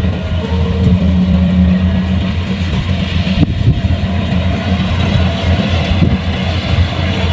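Kubota combine harvester's diesel engine running steadily with a deep, even hum, and one brief knock about halfway through.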